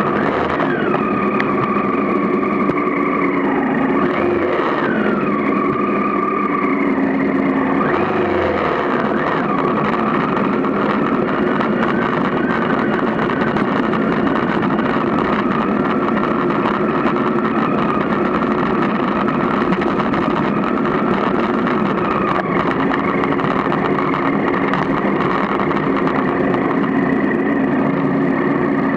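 Triumph Tiger 955i's three-cylinder engine running as the motorcycle rides along a gravel road, its pitch rising and falling through the first eight seconds or so, then holding a steady cruise.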